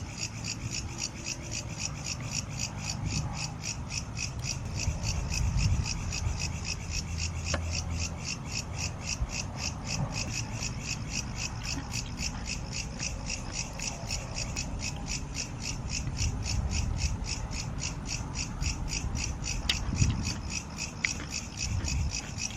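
Insects in the forest calling in a steady, fast, even pulse, with low rubbing and rustling from camp handling underneath.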